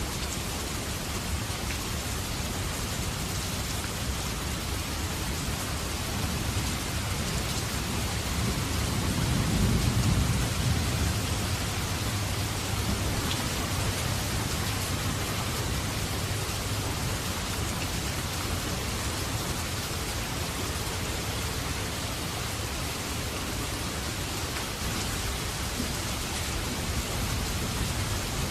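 Steady rain falling, an even hiss, with a low rumble of thunder swelling and fading about a third of the way in.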